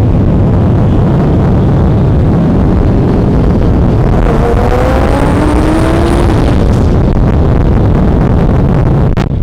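Loud, steady running of a high-performance car engine, with a rising whine about halfway through and a sharp click near the end.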